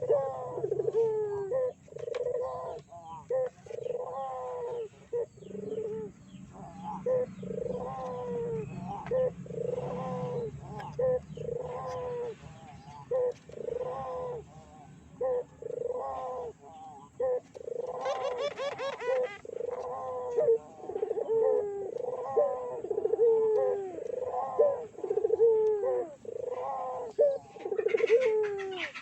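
Puter doves (Barbary doves) cooing over and over, arching coo notes following about one a second and overlapping as if from more than one bird. A brief rough noise cuts in about eighteen seconds in and again near the end.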